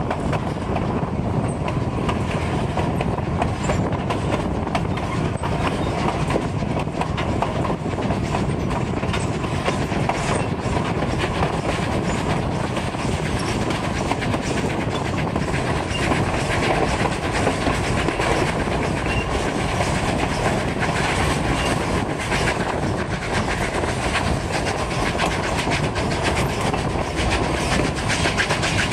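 Narrow-gauge steam train running, heard from one of its passenger cars: a steady rolling rumble with the wheels clicking over the rail joints.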